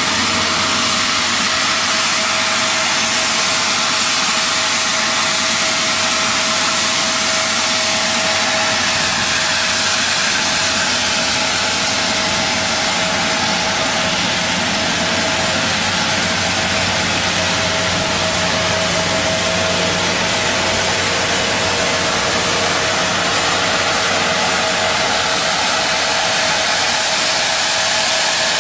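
Steady, loud rushing noise of machinery around an aircraft being de-iced, with a constant mid-pitched whine and a low hum that do not change.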